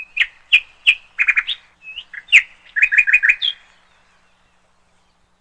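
A small songbird giving a quick series of sharp chirps, some in fast runs of three or four, stopping about three and a half seconds in.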